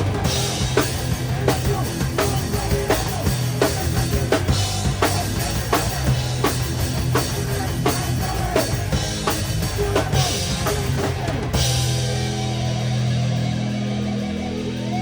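Live rock band playing, with the drum kit keeping a steady beat over guitar and bass. About eleven and a half seconds in, the drums stop and the guitar and bass hold a ringing chord.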